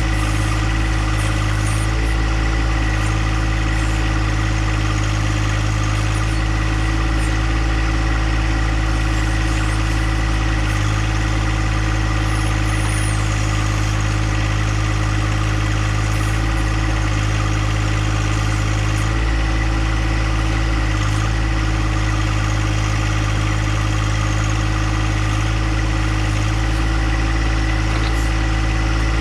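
John Deere compact tractor's engine running steadily at a constant speed.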